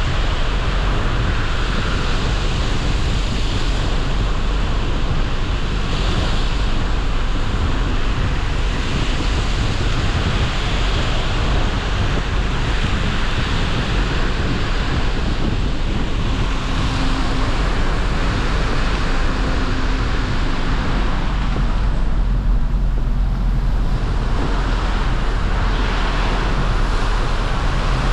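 Steady wind buffeting the microphone and road noise from a moving vehicle, over a constant low rumble.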